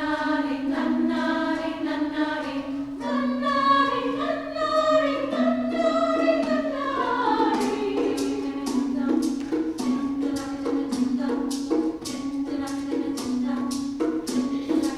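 Women's chorus singing in several parts over a held low drone note; about halfway through a quick, even rhythm of sharp percussive strikes comes in under the voices.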